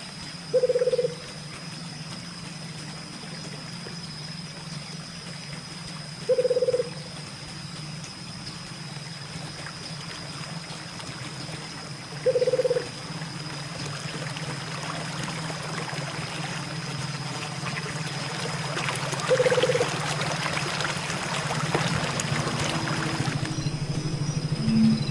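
A short single-pitched animal call, repeated four times at even gaps of about six seconds. Water splashes and trickles in the second half, then stops suddenly.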